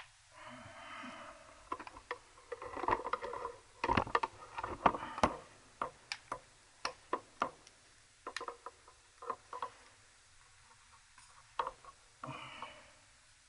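Small tools and parts being handled on a workbench: a long run of irregular sharp clicks and light knocks, with brief rustling near the start and near the end.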